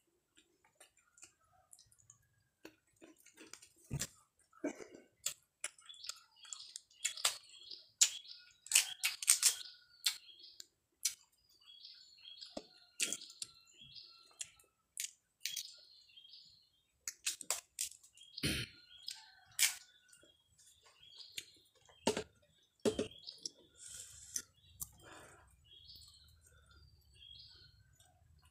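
Wet chewing and lip-smacking with many short sharp clicks as a man eats rice and young jengkol with his hands.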